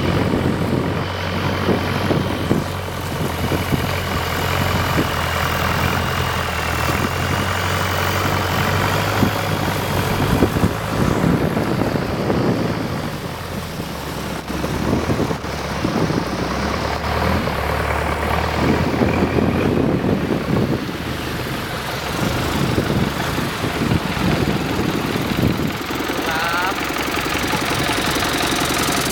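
Long-tail boat engine running steadily under way, with a constant rushing noise over it. The engine note drops lower about ten seconds in.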